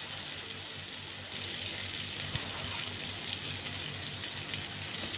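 Coarsely ground chili and garlic frying with shallots in hot oil in a frying pan: a steady, even sizzle.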